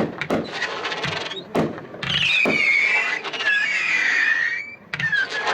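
A 40-shot 500-gram consumer fireworks cake firing: sharp shots and crackling, with a cluster of wavering whistles from about two seconds in until near the end.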